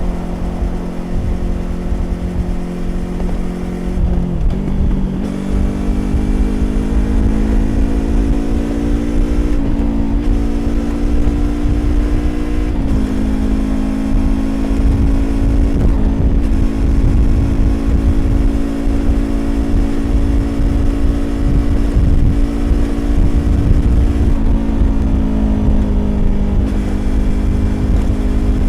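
Yamaha YZF-R25 parallel-twin engine through a Prunus aftermarket exhaust, running under steady throttle at expressway speed. The engine note holds a steady pitch for long stretches, stepping up about four seconds in and again near thirteen seconds, and dipping briefly near the end, over a low rumble of wind and road noise.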